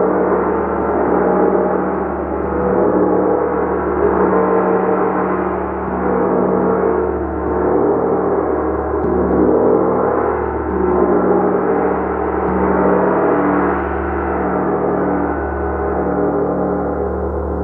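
Gong played continuously, a dense wash of many overlapping ringing tones. The sound swells and eases about every second and a half.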